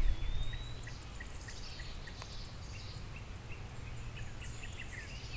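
Small birds calling in the background: a thin rising whistle, then a scatter of short high chirps and twitters. Under them is a steady low rumble of outdoor background noise.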